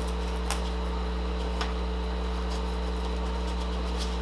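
Steady low electrical hum with a few faint, sharp clicks, a knife cracking and cutting through the hard caramelized sugar top of a crème brûlée donut.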